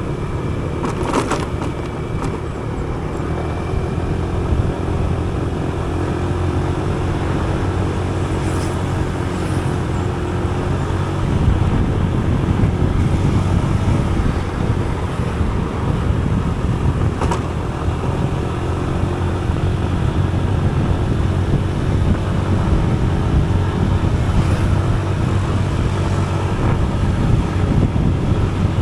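Motorcycle engine running steadily while riding, with wind and road noise on the microphone. It gets a little louder about eleven seconds in.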